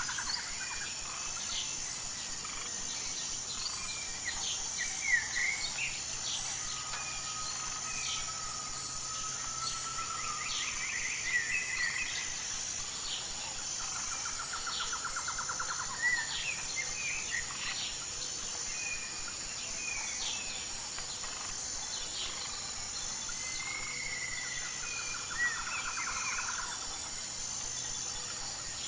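Several wild birds calling and singing: scattered short chirps and whistles, with a rapid trill now and then, over a steady high-pitched insect chorus.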